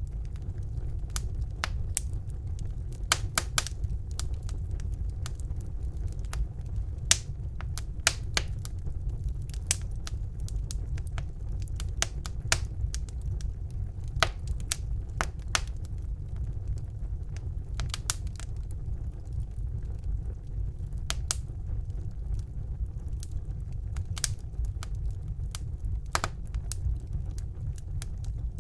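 Wood fire burning in a fireplace: irregular sharp crackles and pops, a few each second, over a steady low rumble of the flames.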